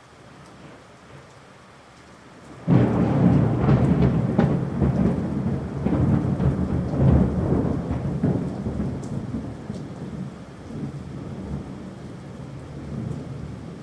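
Rain falling steadily, then a sudden loud crack of close thunder about three seconds in, rumbling on for several seconds and slowly dying away under the rain.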